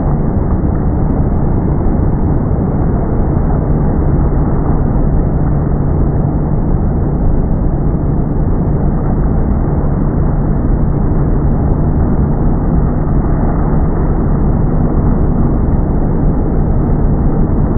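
Boat motor running steadily, a loud muffled rumble with a constant low hum.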